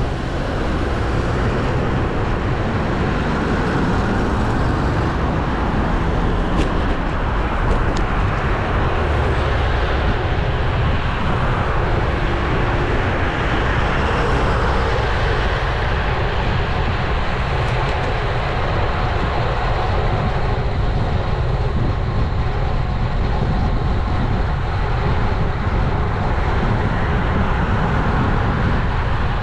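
Steady rush of wind and road noise on an action camera's microphone while riding a road bicycle, with traffic noise mixed in.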